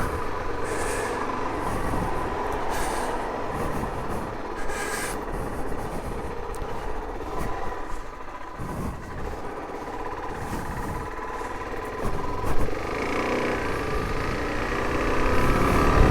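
Suzuki DR-Z400's single-cylinder engine running under the rider, with steady road and wind noise. The engine picks up and revs higher near the end.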